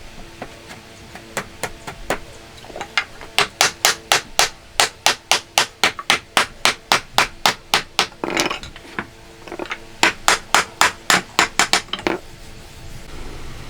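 A hammer striking wood or a chisel in quick, regular blows, about three a second, in two runs with a short pause between them.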